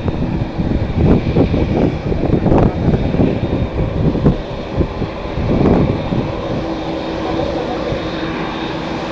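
Strong wind gusting on the microphone over the steady sound of a jet airliner's engines. The buffeting comes in irregular rumbling gusts for the first six seconds or so, then eases, leaving a steadier engine sound.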